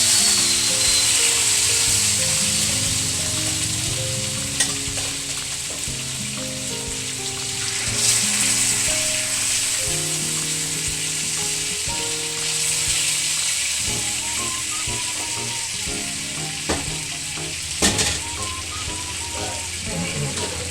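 Chicken leg quarters sizzling steadily as they fry in butter in a pan, with a few sharp knocks, the loudest near the end. Soft background music with slow stepped notes plays underneath.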